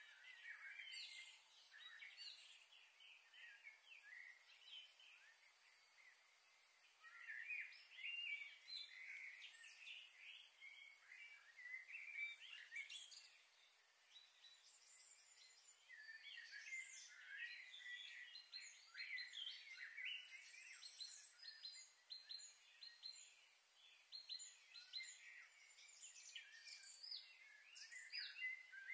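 Faint birds chirping and calling: many short, high chirps and trills in busy clusters, with brief lulls.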